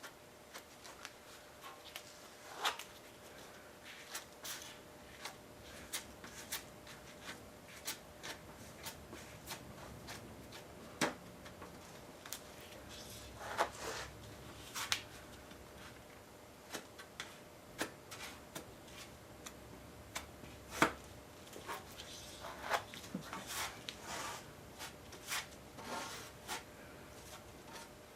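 A filler spreader scraping and pressing stiff body filler onto a steel tractor fender, with irregular short scrapes and sharp clicks. The filler is hard to spread, which the worker puts down to the cold shop.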